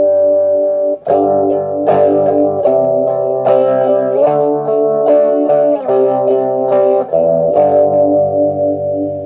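Guitar chords played through a homemade op-amp phaser-vibe pedal with four light-dependent resistors, the effect's slow sweep putting a regular wobble into the tone. The chords change several times, and the sound fades away near the end.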